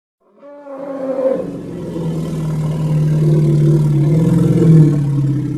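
Elephant calling: a short, higher-pitched cry that falls away about a second in, going into a long, low, loud roar.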